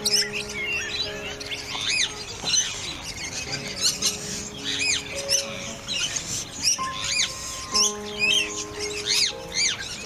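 Many short bird chirps, each quickly rising and falling in pitch, over background music of held notes that change every second or two.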